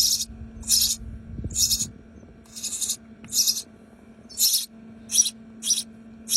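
Nestling birds giving raspy, hissing begging calls, a run of about nine short calls at roughly one every half second or more.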